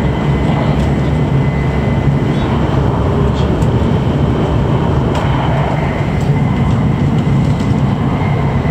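Hokuriku Shinkansen train running at speed, heard inside the passenger car: a steady deep rumble and rushing noise with a faint steady high tone above it.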